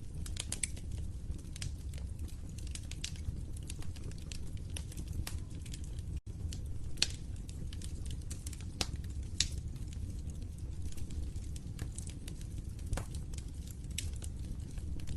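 Wood fire crackling in a fireplace: a steady low rumble of flames under scattered sharp pops and snaps, the loudest about seven seconds in. The sound drops out for an instant about six seconds in.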